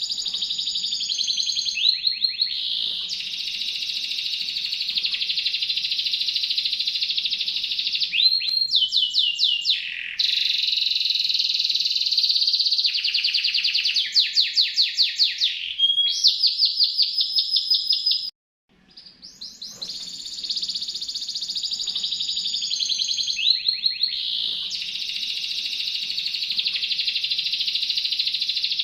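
Domestic canary singing long, fast, high-pitched trills, one rolling phrase running into the next, with a brief break about eighteen seconds in.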